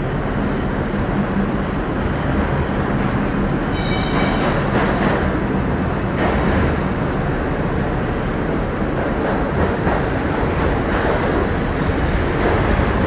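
Kawasaki R62 New York City subway train running along the track, heard from on board as a steady rumble, with a brief high-pitched ring about four seconds in.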